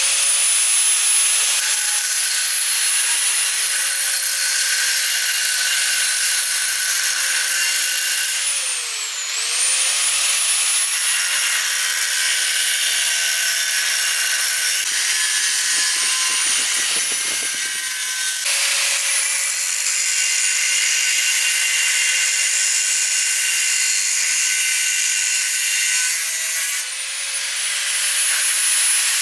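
Handheld electric power tool running with loud working noise over a steady high motor whine. The motor slows and spins back up about a third of the way in and again near the end.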